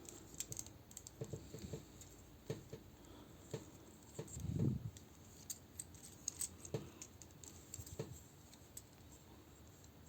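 Faint, scattered small clicks and taps of hands handling small tools and plastic parts, with one soft thump about four and a half seconds in.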